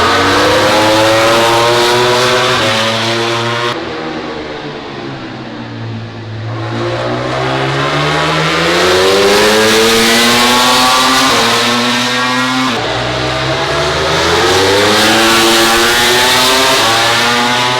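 MotoGP racing motorcycle engines at high revs, the pitch climbing hard through the gears. The sound fades and dulls about four seconds in, then builds again. About thirteen seconds in the pitch drops suddenly at a gear change and climbs again.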